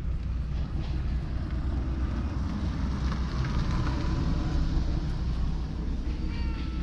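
Steady low outdoor rumble, as of road traffic, swelling a little about halfway through, with a short high pitched call near the end.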